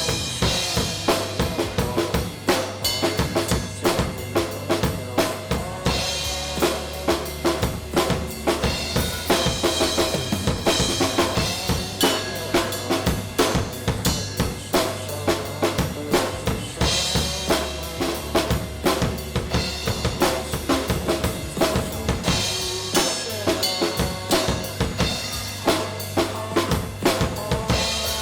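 Drum kit played in a steady rock groove, with kick drum, snare hits and cymbal washes. Sustained bass and guitar notes from the song run beneath it.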